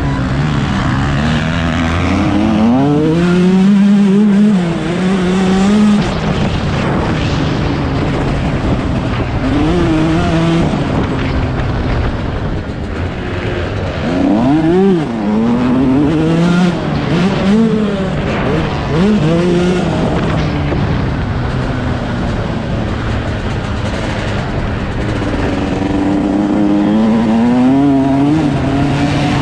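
Yamaha YZ125 two-stroke single-cylinder engine revving hard, its pitch rising and falling again and again as the motocross bike accelerates and backs off, with wind rush.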